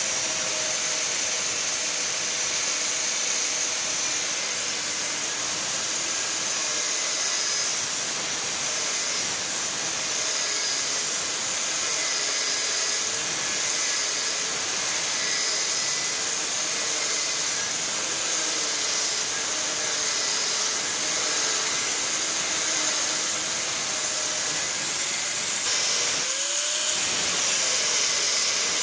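Grinder cutting mild steel with an abrasive disc: a loud, steady, hissing grind, with the motor's hum wavering in pitch under the load. Near the end the motor's pitch briefly rises and falls.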